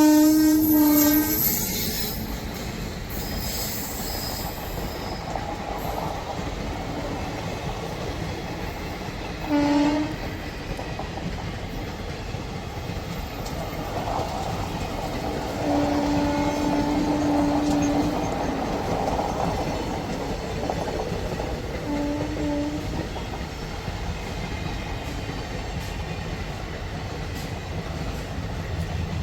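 A passing train rumbling and clacking over the rails, its horn sounding four times: a blast right at the start, a short toot about ten seconds in, a long blast of about two seconds around sixteen seconds in, and another short toot a few seconds later.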